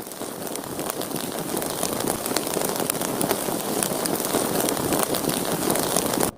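A sustained crackling rush of noise that slowly grows louder, then cuts off abruptly near the end.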